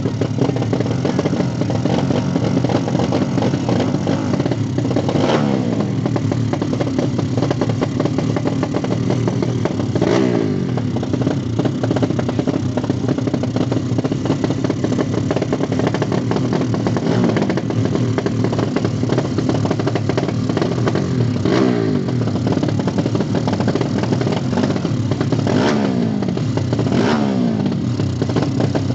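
Motorcycle engines running continuously, revved up and down several times through the stretch.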